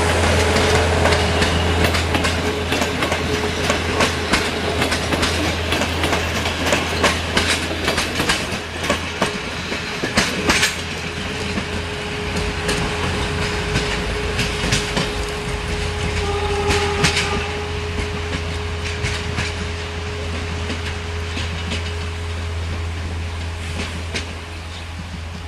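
Passenger train hauled by an LDH diesel-hydraulic locomotive pulling away: the carriage wheels click over the rail joints for the first ten seconds or so, then the clicks thin out as the train moves off. A steady engine drone and hum runs underneath.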